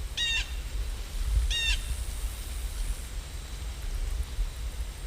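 A bird calling twice, short clear calls about a second apart, over a steady low rumble of background ambience.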